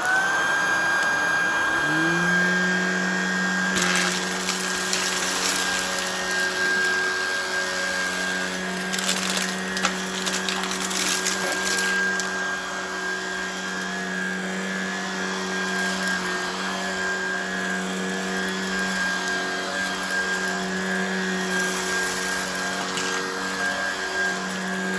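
Shark Vertex cordless stick vacuum starting up in carpet mode without boost, its motor whine rising to speed over about two seconds, then running steadily. Short clicks and rattles come around four seconds in and again between about nine and twelve seconds, as hard debris (jelly beans, cereal, rice, popcorn kernels) is sucked up.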